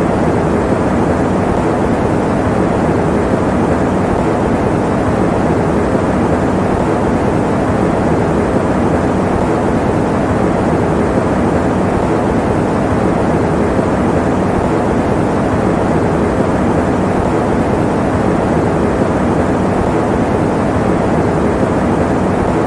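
Electric fan running with a steady, even whoosh, its sound mostly low and mid-pitched with little hiss.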